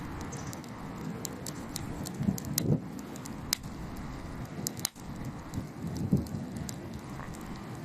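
Wood campfire burning and crackling, with scattered sharp pops over a steady low rush.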